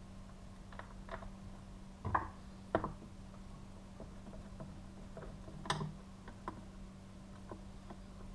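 Scattered light clicks and taps of handling the metal-cased chainsaw and its parts, the loudest about two, three and six seconds in, over a steady low hum.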